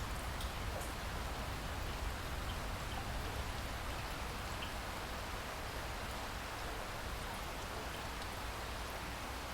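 Steady rain falling, an even hiss with occasional individual drop ticks and a low rumble underneath.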